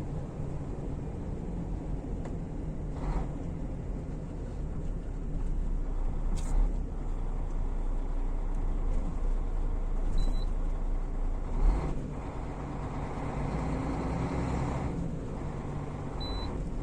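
Long-haul truck rolling slowly, heard from inside the cab: steady diesel engine rumble and road noise that swell and ease as the truck moves on. Two short high beeps sound, one about ten seconds in and one near the end.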